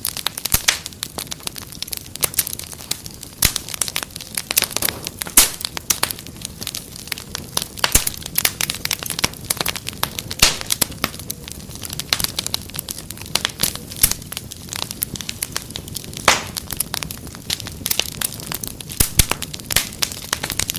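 Wood fire crackling, with frequent sharp pops and snaps of uneven strength, several a second, over a low steady hiss.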